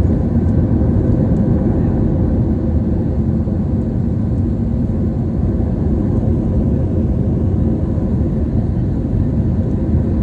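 Steady drone of an airliner in flight heard inside the passenger cabin: a loud, even rush of engine and air noise with a constant low hum.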